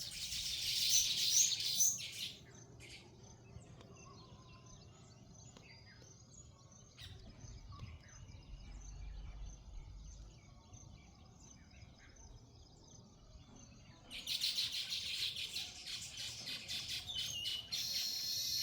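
Small birds chattering in fast, dense runs of high chirps for about two seconds at the start and again through the last four or so seconds, with scattered single chirps in between.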